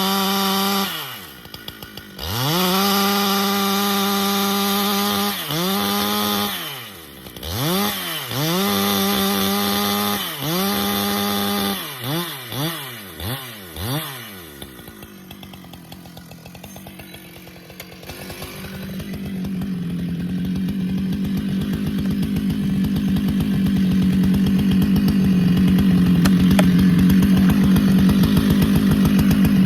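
Two-stroke Husqvarna chainsaw at full throttle, dropping back and revving up again several times, then a string of short quick blips. It falls to a low idle about 14 seconds in. From about 18 seconds it runs hard and steady, getting louder, as it cuts into the pecan wood under load.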